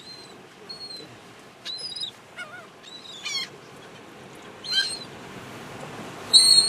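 Seagulls calling in short, high-pitched cries, one after another every second or so. The loudest burst of cries comes near the end.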